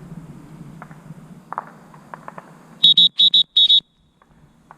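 Dog-training whistle blown in four short, loud, shrill toots about a second apart, a handler's signal to a retriever out in the field on a blind retrieve.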